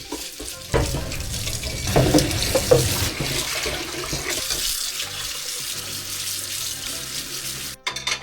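Water from a tap running into a sink, a steady rush that cuts off suddenly near the end.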